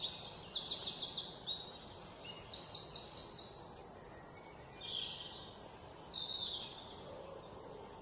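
Small songbird calling: quick runs of four or five short, high chirps that slide downward, then softer scattered calls in the second half.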